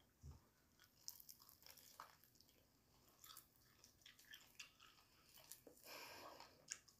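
Faint chewing and biting of fried chicken, with small crunches and mouth clicks scattered throughout.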